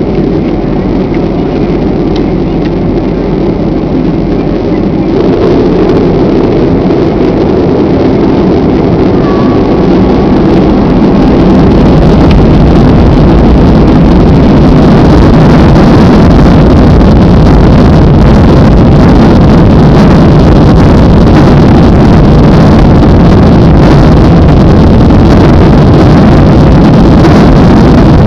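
Airliner's engines spooling up to takeoff power: a loud, steady rumble with rushing noise that grows louder in steps over the first twelve seconds or so, then holds.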